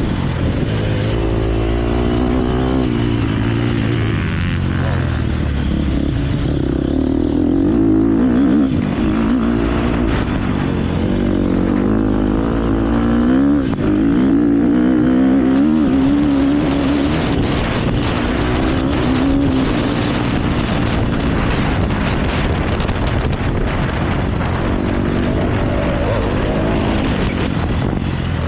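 KTM motocross bike engine, ridden hard, its revs rising and falling repeatedly as the rider accelerates, shifts and backs off.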